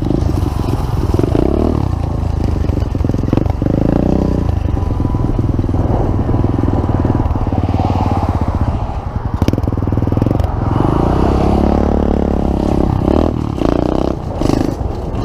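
Pit bike engine running under way, its revs rising and falling, with a climb in revs about eleven seconds in. Occasional short knocks and clatter sound over it.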